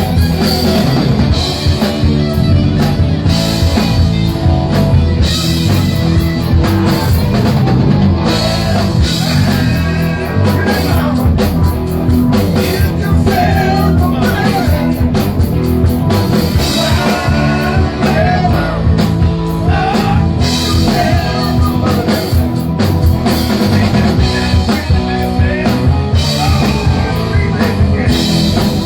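Rock band playing loudly with electric guitar, bass and drum kit, a dense continuous stretch of a hard-rock song.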